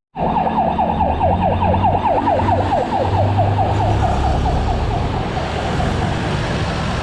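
Electronic siren in a fast yelp, a rapid train of falling whoops at about five a second, louder at first and fading toward the end, over a low road rumble.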